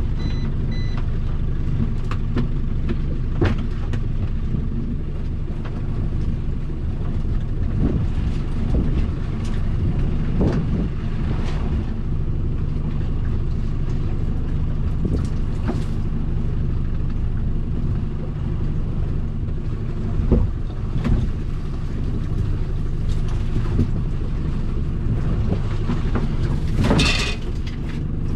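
A small boat's motor running with a steady low rumble and a faint hum, over scattered knocks and clatter as lobster pots are hauled aboard. One louder, brief rushing sound comes near the end.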